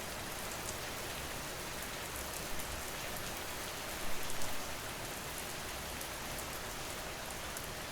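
Steady rain falling, an even hiss of rain on surfaces with a few slightly louder swells about halfway through.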